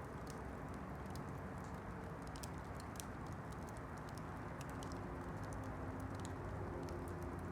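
Wood campfire crackling: frequent small, sharp pops and snaps at irregular intervals over a steady low rush.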